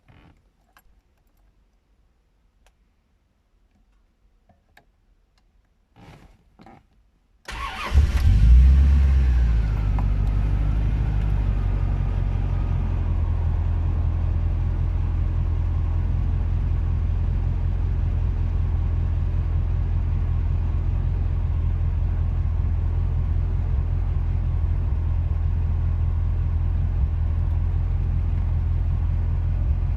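Faint clicks, then about seven and a half seconds in the 1992 Corvette C4's 5.7-litre V8 cranks and catches, flares briefly in revs and settles into a steady idle.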